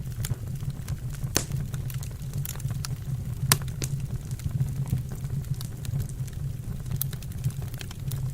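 Wood burning in a fireplace, crackling with scattered sharp pops over a steady low hum; the loudest pop comes about three and a half seconds in.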